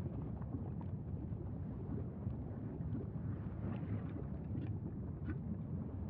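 Wind buffeting the microphone: a steady low rumble with a few faint ticks over it.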